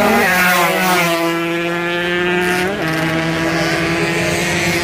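Two-stroke racing motorcycle engines running at high revs. Their pitch steps down suddenly twice, about a fifth of a second in and again near three seconds.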